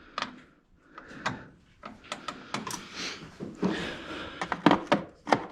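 Hand tools and sockets being handled, with irregular metallic clinks, knocks and scrapes.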